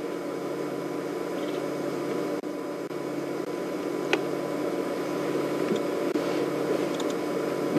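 A steady low mechanical hum over hiss, with one short click about four seconds in.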